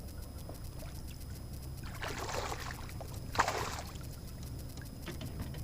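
Two short splashes of water beside a kayak, the second sharper, over a steady low rumble.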